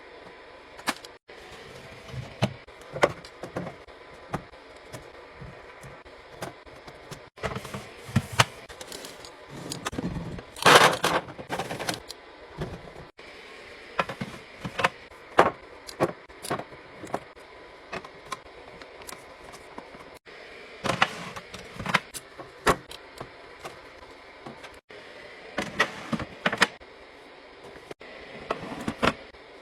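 Drinks and food containers being set into a fridge one after another: a run of irregular clinks, taps and knocks of cans, bottles and plastic tubs on shelves and against each other. A longer, louder rustling clatter comes about eleven seconds in.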